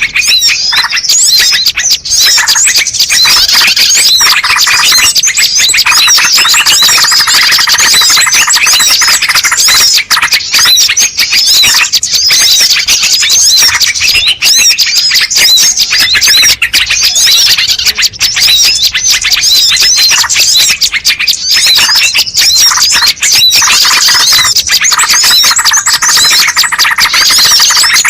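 Bird-lure playback recording: a dense chorus of many small birds chirping and calling over one another without a break.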